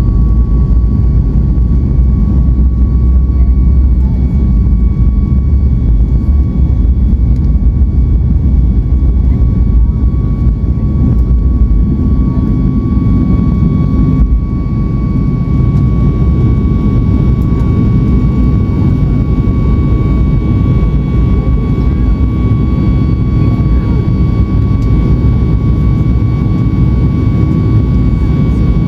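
Jet engine noise heard from inside the cabin of a Boeing 737 MAX 8-200 with CFM LEAP-1B engines: a loud, steady low rumble with a steady high whine over it.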